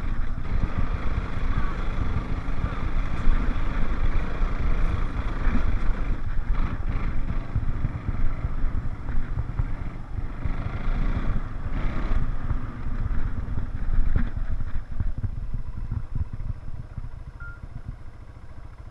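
All-terrain vehicle (4-wheeler) engine running while riding, a steady low rumble with rattling, easing off over the last few seconds.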